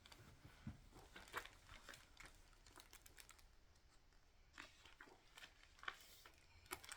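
Near silence with a few faint, short rustles and clicks from the pages of a picture book being handled.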